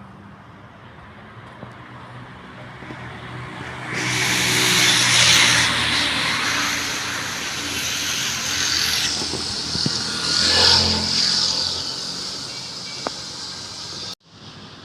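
Road traffic passing close by: a vehicle's tyre and engine noise swells suddenly about four seconds in, a second vehicle passes with a low rumble around ten seconds, and the sound cuts off abruptly near the end.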